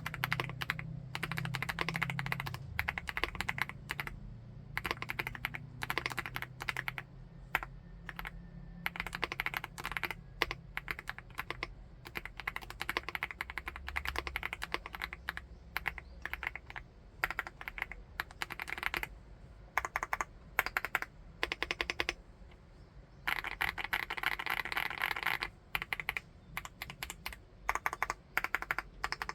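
Typing on a full-aluminium 75%-layout mechanical keyboard: runs of quick keystrokes, with a denser stretch of fast typing a little past the middle of the second half.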